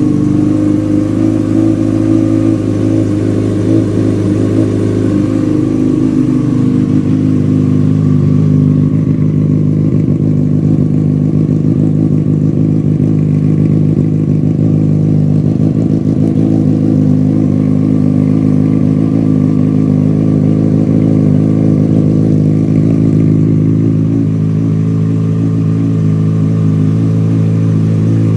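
Yamaha FZ6's inline-four motorcycle engine idling steadily just after a cold start.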